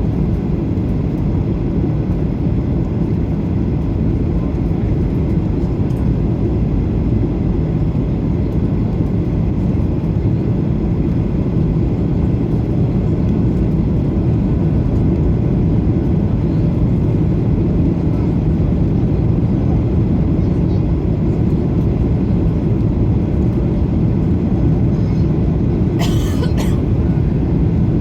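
Airliner cabin noise: a steady, deep roar of engines and airflow during the approach to landing. Near the end a short, higher sound with several tones cuts through briefly.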